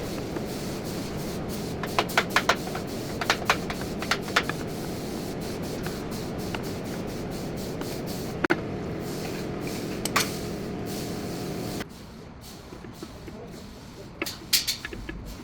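Scattered sharp clicks and knocks, like tools or metal parts being handled during brake work, over a steady low hum that drops away about twelve seconds in.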